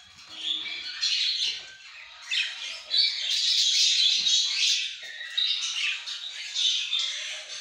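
A group of budgerigars chattering and squawking: a dense, high, continuous chirping that swells loudest about three seconds in.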